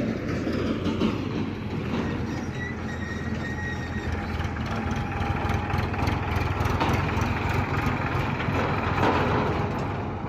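Heavy diesel engine running steadily, with a continuous low engine note and mechanical clatter.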